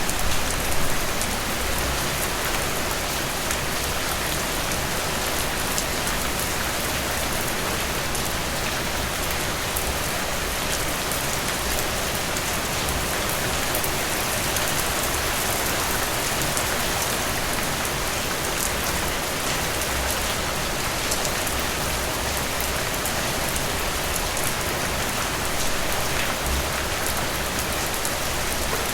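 Heavy rain falling steadily: a dense, even hiss with individual drops ticking through it, and a few louder spatters about a second in.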